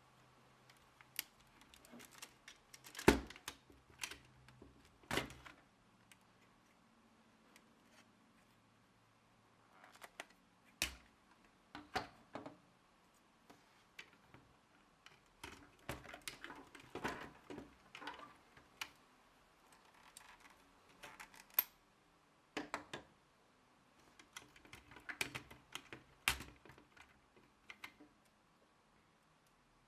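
Lego plastic parts clicking and rattling as the rifle's mechanism is handled: irregular sharp clicks with short pauses between, the loudest about three seconds in.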